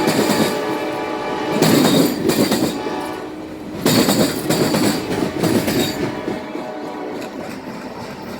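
Amtrak passenger train's locomotive horn sounding three loud blasts, each lasting a second or two, with short gaps between them. The passing train runs on quieter over the last couple of seconds.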